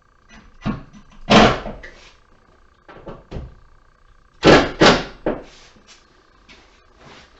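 Irregular knocks and clunks of tools and hardware being handled and set down on a workbench, the loudest about a second and a half in and again around four and a half to five seconds in, over a faint steady high hum.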